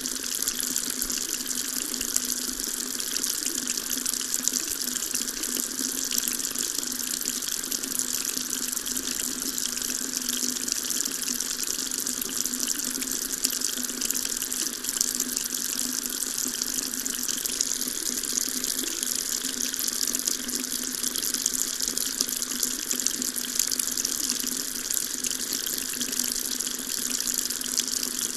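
Water tap running steadily, a continuous stream of water splashing with an even hiss.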